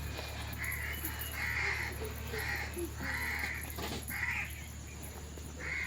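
A crow cawing repeatedly, about five calls roughly a second apart.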